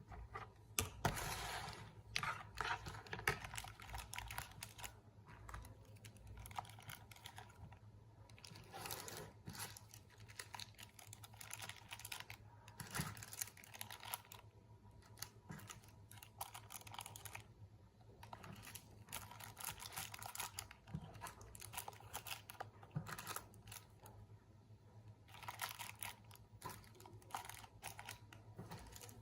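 Bursts of quick light clicks and some rustling from objects being handled at close range, coming in clusters several seconds apart over a faint steady low hum.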